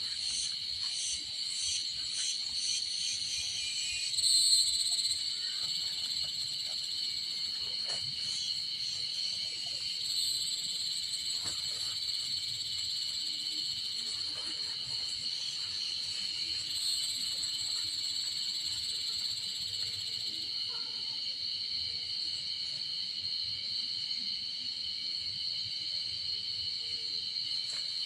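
Steady high-pitched chorus of insects, with a pulsing trill over the first few seconds and a brief louder swell about four seconds in.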